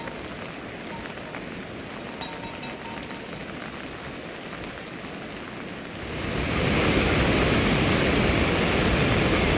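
Steady hiss of rain falling, with a few faint ticks early on, becoming much louder and heavier about six seconds in.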